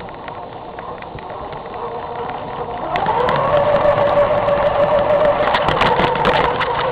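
Electric RC truck (Traxxas Stampede) motor and drivetrain whining. About three seconds in, the pitch rises quickly as the motor spins up, then holds a steady high whine, with scattered clicks.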